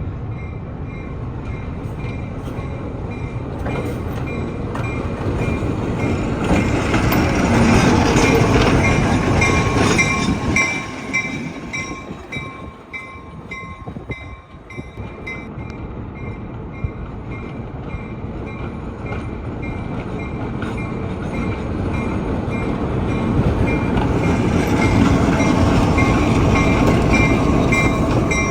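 A train rolling past with a steady rumble that swells, dips midway and swells again, while a railroad crossing bell dings steadily throughout.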